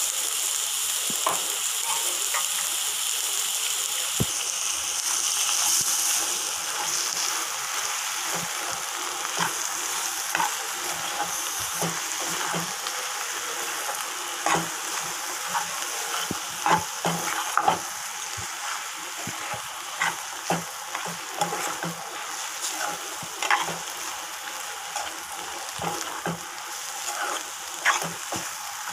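Potato, onion and tomato stir-fry sizzling steadily in an oiled pan while a steel spoon stirs it, scraping and clinking against the pan many times, most thickly from about eight seconds in.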